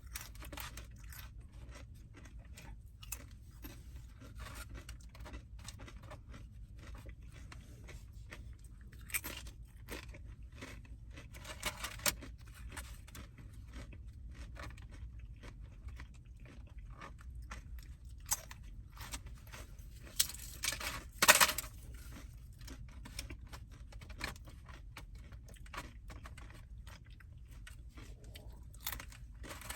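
Close-up chewing and crunching of food in a person's mouth, with many small wet mouth clicks; louder bursts of crunching come about twelve seconds in and again around twenty-one seconds in.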